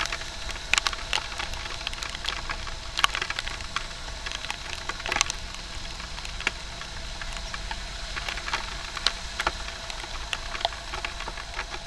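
Heavy rain: raindrops striking close to the microphone as sharp, irregular taps, a few of them louder, over a steady low rumble of the motorbike ride.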